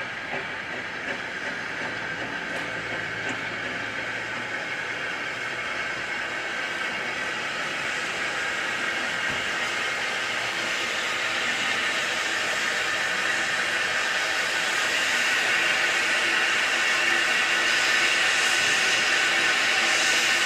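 Steam train running on the line, a steady hiss of steam and train noise that grows steadily louder.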